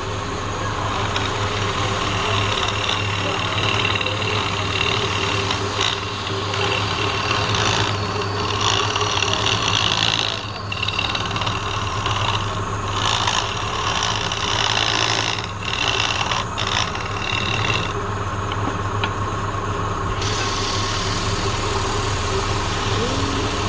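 Wood lathe running with a steady motor hum, while a turning tool cuts the spinning wood on and off as a rushing hiss.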